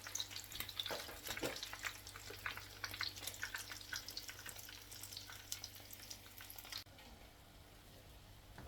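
Breaded chicken croquettes deep-frying in hot oil, with dense crackling and sizzling. The crackling cuts off suddenly near the end, leaving a faint steady hiss.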